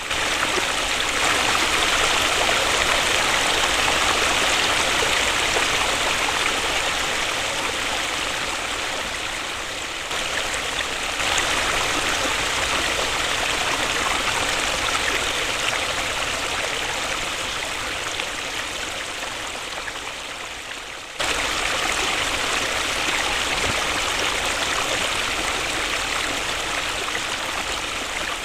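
Waterfall: a steady rush of falling and splashing water. Its level jumps up abruptly about a third and again about two-thirds of the way through, then eases off slowly each time.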